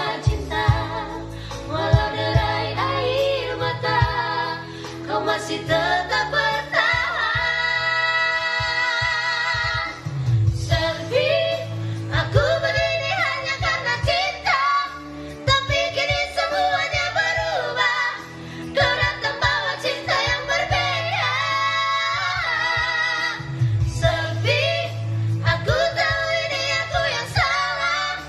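A singer performing an Indonesian-language love ballad over backing music, holding one long note about seven seconds in.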